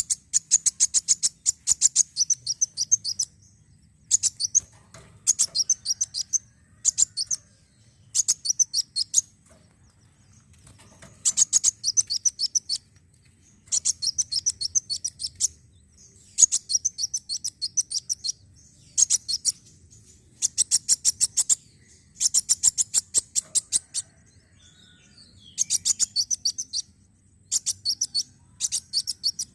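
Kolibri wulung, a sunbird, singing: phrases of rapid, sharp high-pitched notes, each lasting one to three seconds, repeated again and again with short pauses between them. This is a lure recording, played to get caged sunbirds to sing.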